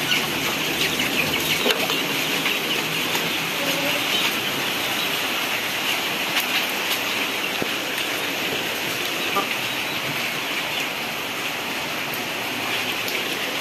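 Steady hiss of rain falling, with a few faint taps.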